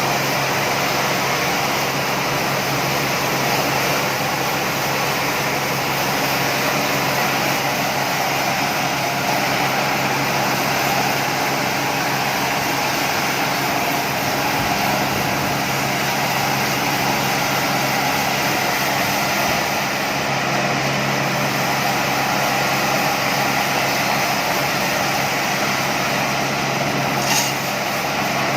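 Sawmill machinery running steadily with an even, engine-like drone. A single brief sharp click near the end.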